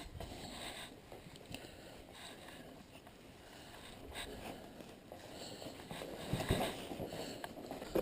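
Faint handling noise of a metal bracket being worked by hand as it is strained to bend further, with a few soft knocks and clicks; the metal is not giving.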